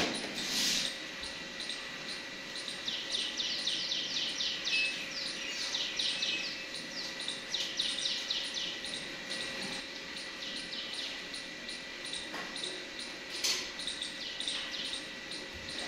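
Small birds chirping in repeated runs of quick, falling high notes, over a steady outdoor background hiss with a faint constant tone.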